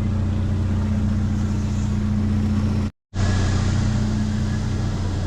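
Vehicle engine running steadily with an even, unchanging drone; the sound cuts out completely for a moment about three seconds in.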